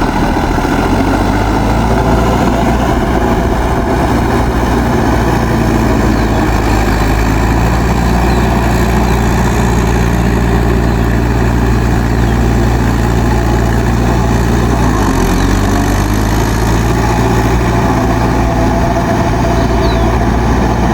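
Mahindra 4WD DI tractor's diesel engine running steadily. About fifteen seconds in, the engine speed dips briefly and then recovers.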